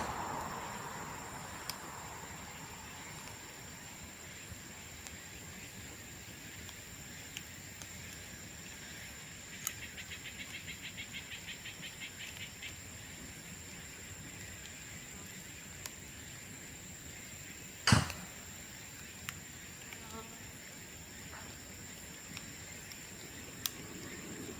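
Cut bamboo burning in an open bonfire: a steady hiss broken by a few sharp pops as bamboo sections burst, the loudest a single crack about three quarters of the way through, and a brief run of rapid ticking near the middle. A thin steady high tone runs underneath.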